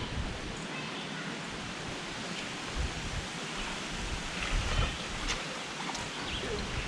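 Wind buffeting the microphone outdoors: a steady rushing noise with uneven low rumbling gusts and a few faint clicks.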